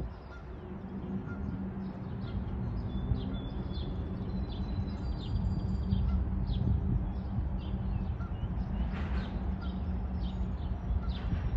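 Small birds chirping over and over, short high calls with a couple of louder ones near the end, over a steady low hum and rumble.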